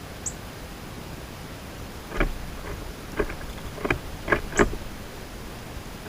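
Birds at a backyard feeder: one short high chirp near the start, then from about two seconds in a run of six or seven irregular sharp taps and knocks, as of birds pecking and landing on the feeder, over a steady hiss.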